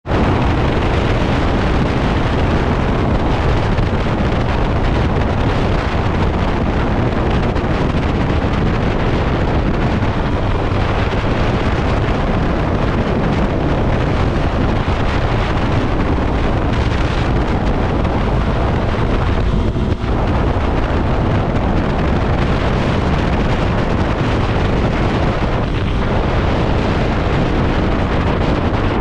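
Steady, loud wind noise buffeting the microphone of a camera on a moving motorcycle, heaviest in the low end.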